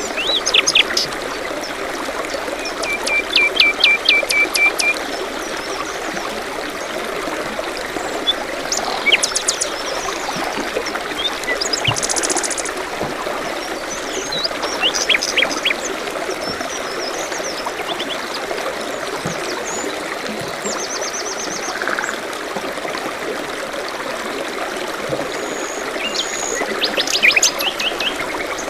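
Steady trickling of running water, like a small forest stream, with several songbirds calling over it. There are short chirps, a quick trill of repeated notes, and a very high rapid buzzy series about twelve seconds in.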